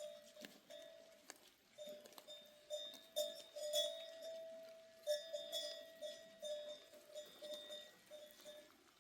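Bells hung on goats clanking irregularly as the herd moves, each strike ringing briefly with the same metallic pitch.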